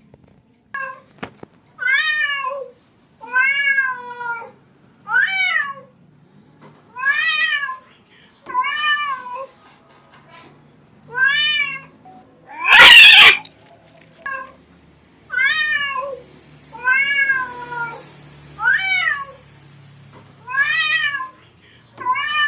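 A domestic cat meowing over and over, about a dozen meows spaced every one and a half to two seconds, each rising then falling in pitch. About halfway through there is one louder, harsher, rasping cry.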